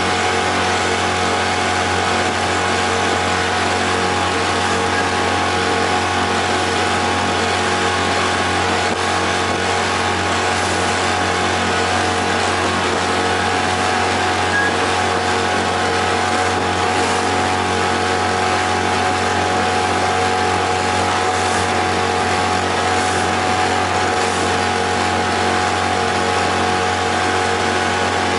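Freshly overhauled outboard motor running steadily at cruising speed, a constant engine note with several steady tones over a rushing noise and no change in revs.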